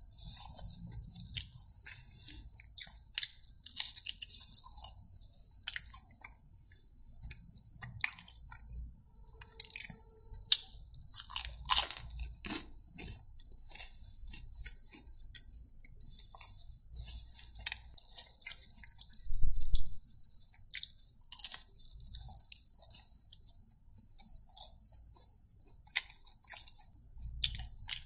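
A person chewing and biting food right at the microphone, with irregular crunches and clicks.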